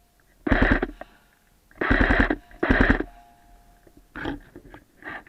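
Airsoft gun firing three short full-auto bursts, each a rapid rattle of about half a second, the last two close together; two fainter noises follow near the end.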